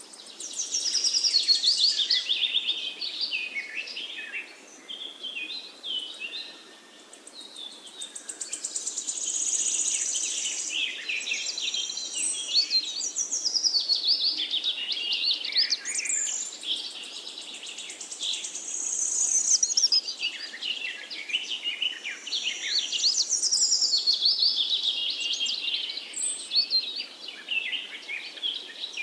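A chorus of many small birds chirping and singing together: quick, overlapping high chirps and trills, thinning briefly about four to seven seconds in.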